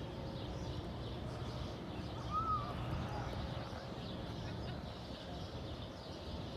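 Steady low outdoor background noise by a river, with one short faint bird call about two and a half seconds in.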